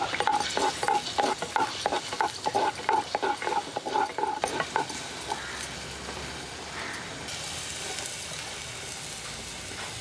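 Wooden spoon stirring ginger-garlic paste in hot oil in a clay pot, scraping against the pot in quick repeated strokes for about five seconds while the oil sizzles. After that the stirring stops and only the steady sizzle goes on.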